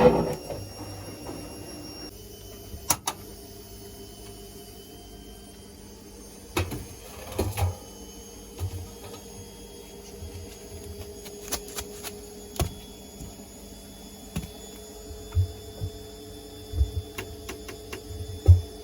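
Washing machine running with a steady hum, frozen cider knocking about in the drum with irregular dull thuds and sharp clicks every second or two.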